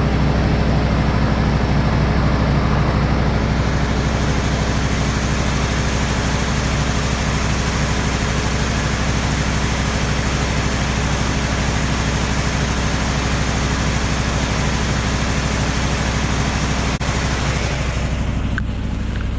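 An engine running steadily, with a hiss over it that grows brighter about three and a half seconds in and dies down near the end.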